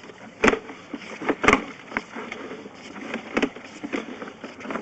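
Irregular knocks and scraping, loudest about half a second and a second and a half in, as a sewer inspection camera's push cable is fed down the pipe.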